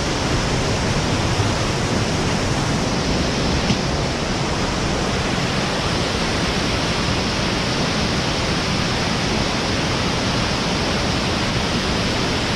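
Steady rush of a river in flood, whitewater rapids at high water, with no breaks or changes.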